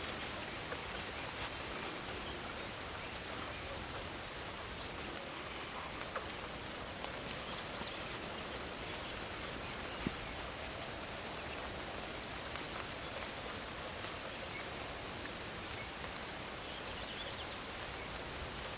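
Steady rain falling in a forest with scattered drip ticks, one sharper tick about ten seconds in, over a constant high-pitched chorus of crickets.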